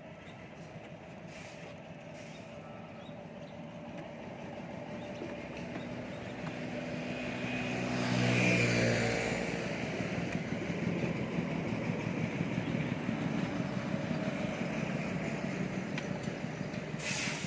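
A motor vehicle passing by. It grows louder to a peak about eight seconds in, then falls back to a steady hum.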